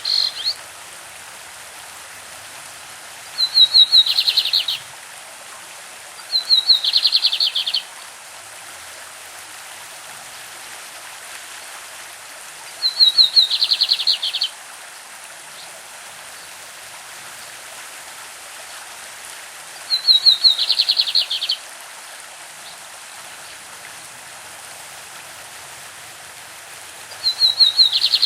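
A lined seedeater (bigodinho) sings its classic song again and again: short phrases of about a second and a half, each a quick trill running into a buzzier part, coming every six or seven seconds. Four full songs are heard, with the tail of one at the start and the beginning of another at the end. A steady rush of a stream runs beneath them.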